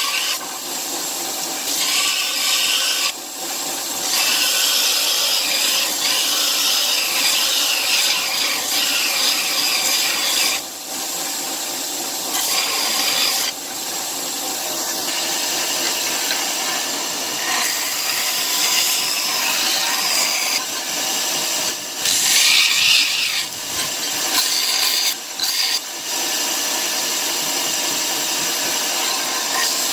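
A shop tool rubbing steadily on material with a coarse abrasive sound, broken by a few short pauses.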